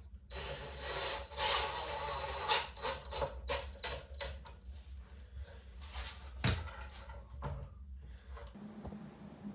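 Hand work on wood: a run of rough scraping and rubbing strokes with small knocks among them, and one sharp knock about six and a half seconds in, the loudest moment. The scraping stops abruptly near the end.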